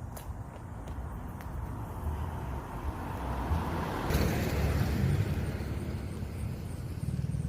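A car's engine and exhaust running with a low rumble, swelling to a louder peak about four seconds in, then easing back.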